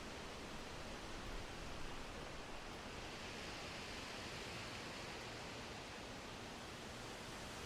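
Winter wind blowing steadily, an even soft rushing hiss that grows a little brighter in the middle.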